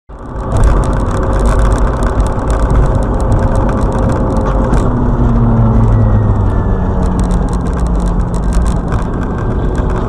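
Running vehicle noise, engine and road rumble, heavy at the low end, with rattling and light clicking over it. It stays steady, with no single loud impact standing out.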